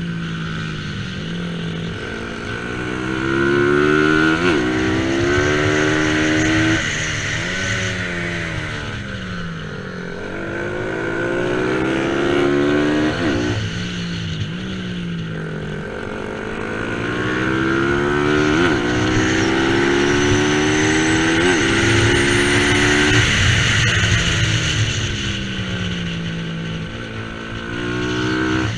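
Bajaj Pulsar 200 NS single-cylinder engine at race pace, revving up through the gears with sharp drops at each upshift, then winding down as it slows for corners, over and over.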